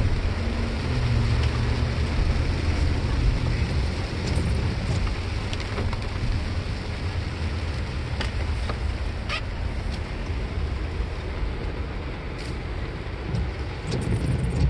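Heavy rain beating on a vehicle's roof and windshield, heard from inside the cabin over a steady low rumble of the vehicle, with scattered sharp ticks.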